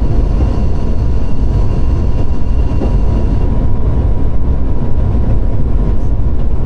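Steady low rumble of a diesel locomotive running, heard inside its cab, with a faint steady whine over it.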